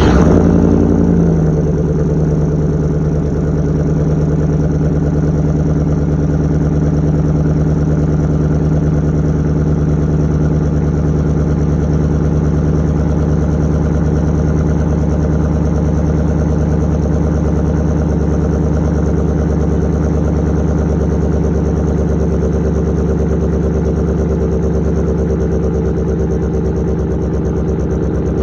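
Cold start of a Chevy Silverado's engine through a straight-piped side-exit exhaust with no muffler: it catches right at the start, the revs flare and drop back within about two seconds, then it idles steadily and loud.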